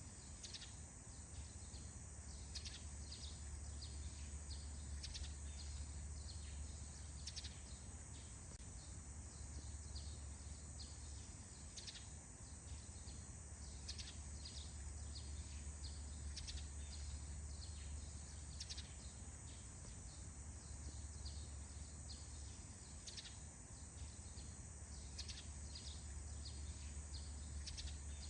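Faint outdoor ambience: birds giving short, scattered chirps over a steady high-pitched hiss and a low steady rumble.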